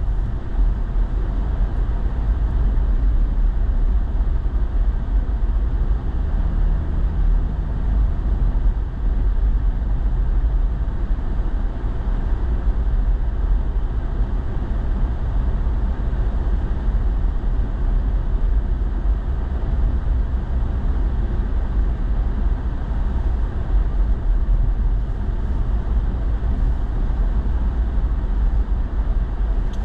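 Truck driving on snow-covered roads, heard from inside the cab: a steady low rumble of engine and tyres.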